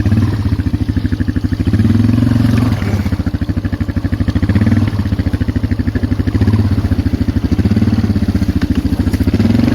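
Polaris Magnum 425 ATV's single-cylinder four-stroke engine running under load, its revs rising and easing off several times.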